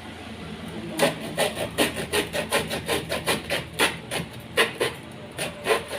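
Handsaw cutting wood in quick back-and-forth strokes, about four or five a second, starting about a second in and pausing briefly twice near the end.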